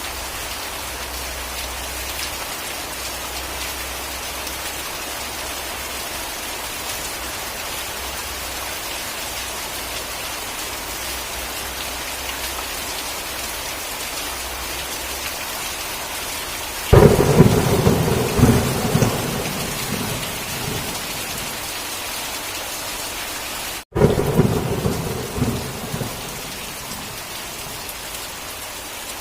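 Steady heavy rain, broken by two thunderclaps: one about seventeen seconds in and another about twenty-four seconds in. Each starts suddenly and rumbles away over a couple of seconds. The sound cuts out for a split second just before the second clap.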